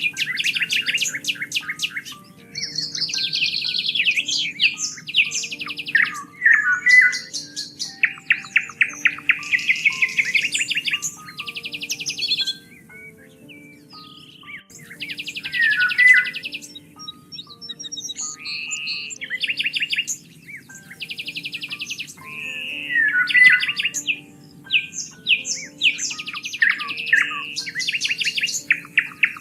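Songbirds singing: rapid trills and quick runs of chirps, one phrase after another, over soft background music with held low notes.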